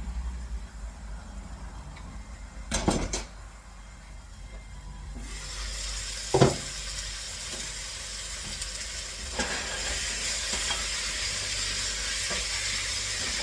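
Cookware clatters about three seconds in. About two seconds later food starts sizzling in hot oil, with a sharp metal clink a second after that, and the sizzle grows louder and keeps going steadily.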